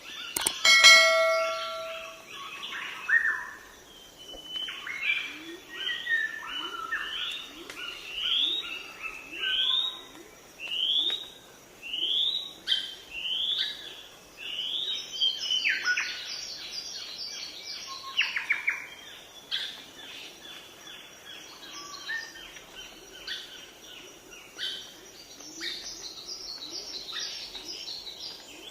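Birds singing and calling: a run of sharply rising whistled notes about once a second, then busier overlapping chirping from several birds. Near the start a short ringing, bell-like tone sounds, the loudest moment.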